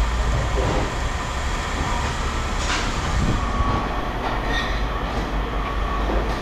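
Heavy machinery rumbling and rattling steadily, with a sharp clank about three seconds in.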